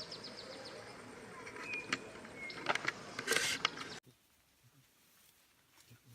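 Outdoor ambience with short whistled bird notes about two seconds in and a few sharp clicks around three seconds in. It drops suddenly to a faint background about four seconds in.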